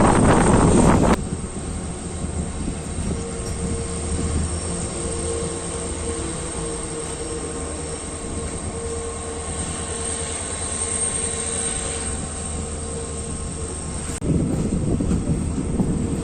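Passenger train running at speed on curves, heard from on board: steady rumble and rattle of wheels on the track. It is loud for about the first second, drops suddenly to a quieter run with a faint steady whine, and comes back loud about two seconds before the end.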